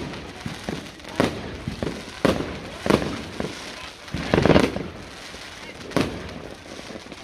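Fireworks going off: about five separate bangs over several seconds, the longest and loudest one about halfway through.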